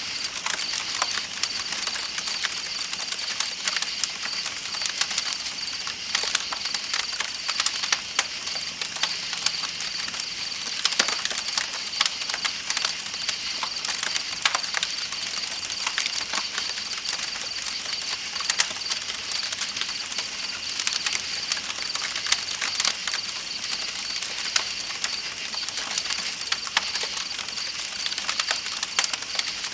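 Campfire crackling with frequent sharp, irregular pops, over a steady high-pitched chorus of night insects chirping and an even hiss of flowing river water.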